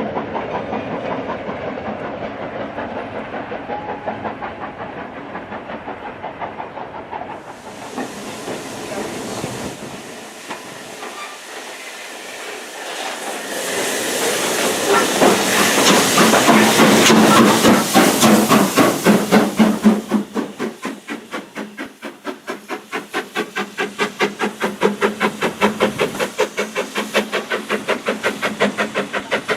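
Steam train running with the regular clickety-clack of wheels over rail joints. From about eight seconds in, a loud hiss of steam rises, is loudest in the middle and stops suddenly about two-thirds of the way through, leaving the steady wheel beat.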